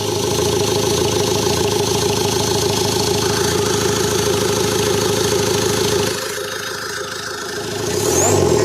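Ford Endeavour 2.2-litre four-cylinder diesel engine, newly fitted, running steadily just after catching on its first start once air was bled from the diesel line. It drops to a lower level about six seconds in and comes up again near the end.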